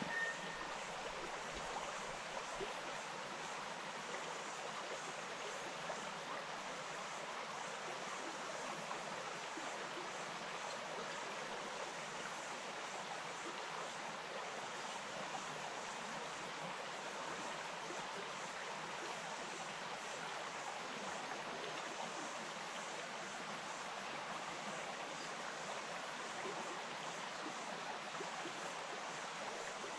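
Small bush stream flowing over stones, a steady even rush of water.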